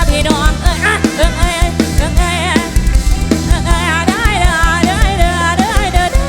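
Loud live band music in Thai Isan pop style: a steady drum beat under a wavering, bending lead melody.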